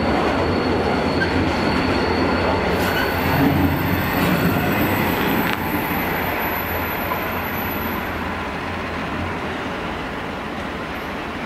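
Freight train wagons rolling past on steel wheels in a steady rumble, with a thin high wheel squeal over the first few seconds. About halfway through, the end of the train passes and the rolling noise fades as it draws away.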